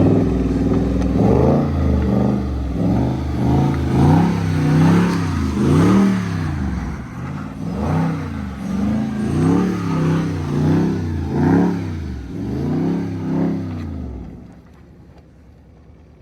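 Dodge Scat Pack's 6.4-litre HEMI V8 revving up and down again and again, about once a second, then falling quiet about 14 seconds in.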